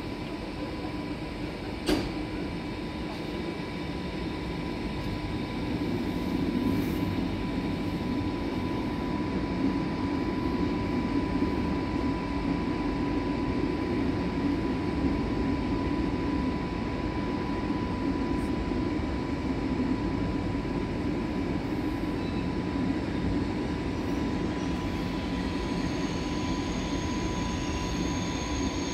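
Deutsche Bahn ICE high-speed train rolling slowly along a station track: a steady rumble of its running gear that grows louder about six seconds in, over a steady whine. There is one sharp knock about two seconds in, and a high wheel squeal starts near the end.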